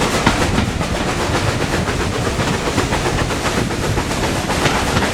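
Railway train running on the line, a steady rumble with frequent clatter of wheels over rail joints.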